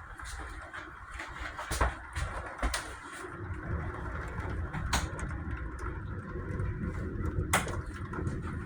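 Thunderstorm heard through a window: a steady hiss of rain with a low rumble of thunder that swells from about three seconds in, and a few sharp taps scattered through it.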